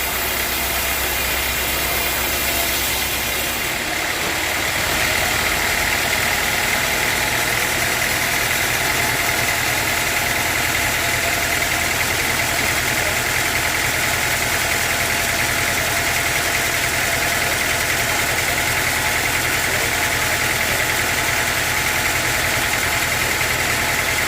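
Sawmill machine running steadily. About four to five seconds in its low note changes and it gets slightly louder, then it holds steady.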